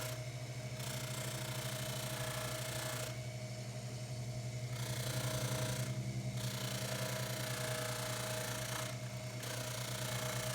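Baldor 353T dental lathe running steadily with a buffing wheel, a low motor hum under a hiss of a pipe stem being buffed with tripoli compound to take off oxidation. The hiss drops away briefly four times.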